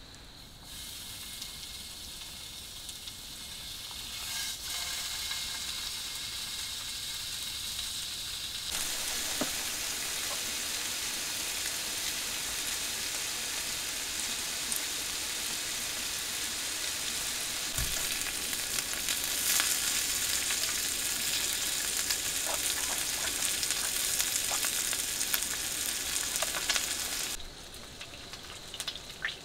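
Food frying in a hot pan, a steady sizzle that grows louder in steps over the first nine seconds and stops abruptly near the end.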